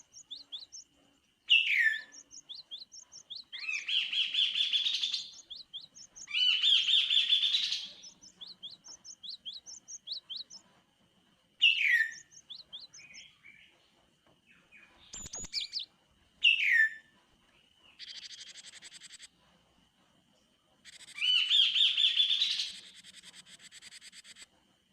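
Kaso-kaso (chestnut-capped babbler) singing in separate phrases: sharp falling whistles and fast, rich trills with runs of short chirps between them. A faint steady high whine runs underneath, and a single sharp click comes about halfway through.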